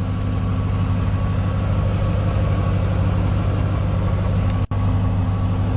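2008 Ford Mustang GT California Special's 4.6-litre V8 idling steadily, with the sound breaking off for an instant a little past four and a half seconds in.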